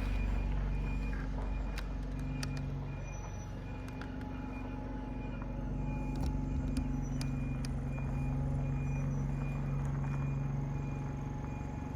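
Large diesel vehicle engine running steadily at low revs, with a high electronic beep repeating at an even pace.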